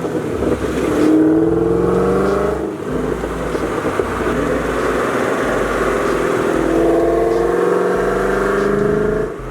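C5 Corvette's V8 engine accelerating under load, its pitch climbing in two pulls with a brief drop in between, as at a gear change.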